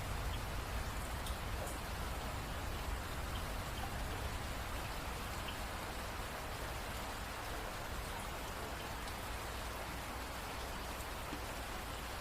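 Steady rain falling, an even hiss with a few separate drops ticking through it. A low rumble eases off in the first second or two.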